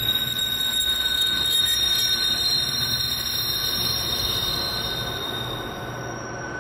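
Container freight train's wagons rolling past on a climb, with steady high-pitched wheel squeal over the low rumble of the diesel locomotives working hard, fading as the train moves away; the highest squeal tone stops about six seconds in.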